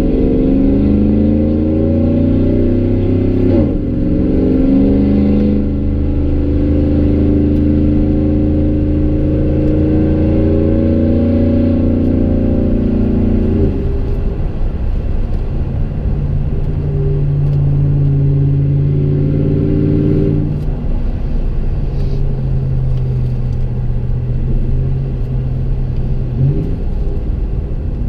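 Exhaust of a Chevrolet Silverado's 5.3-litre V8 with long-tube headers and a Gibson MWA muffler and no resonator, heard inside the cab. It accelerates, the pitch rising and dropping at a gear shift about four seconds in, climbs again until about fourteen seconds in, then settles to a steadier low tone at cruise that steps lower again around twenty seconds.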